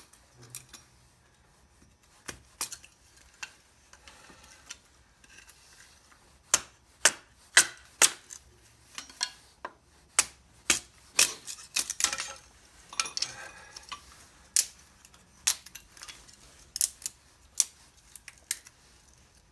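Small kindling being split and broken into tiny sticks: irregular sharp cracks and clicks of wood. They are sparse at first and come thick and fast, about one or two a second, from about six seconds in.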